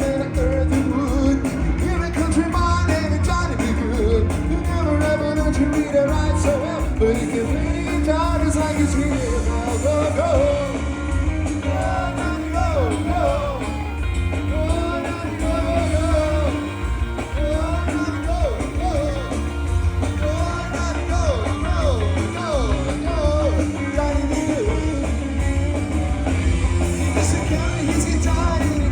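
Live band playing a blues in B: singing and bending guitar lines over a heavy, steady bass and drums.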